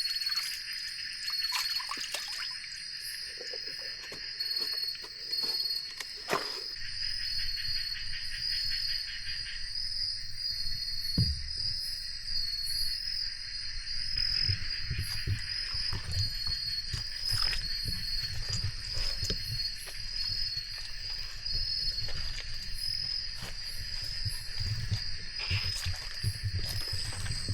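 Forest insects, crickets among them, keep up a steady high trill chorus. Scattered knocks and clicks, and low irregular thumping and rumbling from about seven seconds in, sit under it.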